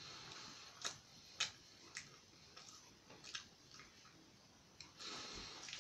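Faint, irregular clicks and small crunches of a person chewing a breaded chicken nugget with mouth closed, with a soft rush of breath near the end.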